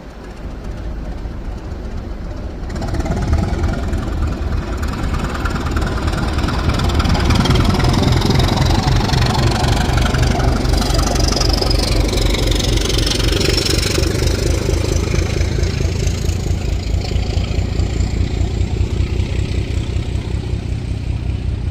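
Diesel train engine running under load, growing loud about three seconds in and staying loud, with a high whine partway through.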